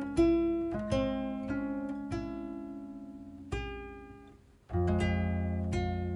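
Gentle instrumental background music of slow plucked notes, each ringing and fading; the sound dies away almost completely about four and a half seconds in before a fuller chord sounds.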